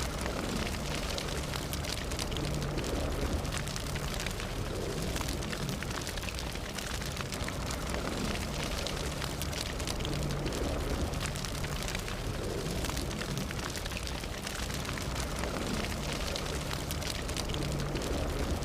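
Fire burning: a steady rushing hiss full of small, sharp crackles and pops, over a low rumble.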